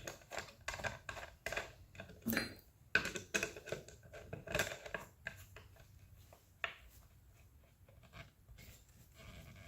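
Irregular clicking and clinking of small hard objects being handled, dense for the first five seconds, with one more sharp knock near the end of it, then fading to low background.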